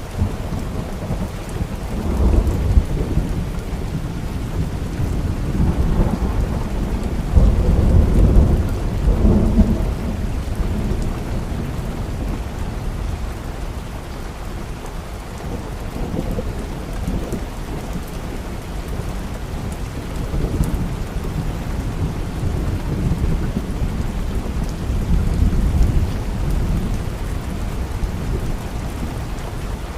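Steady rain with low thunder rolling several times, swelling and fading, loudest about eight seconds in.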